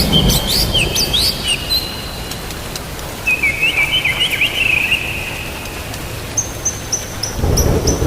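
Songbirds chirping in short gliding notes, then a quick run of high repeated notes near the end, over steady rain with a low thunder rumble that swells near the end.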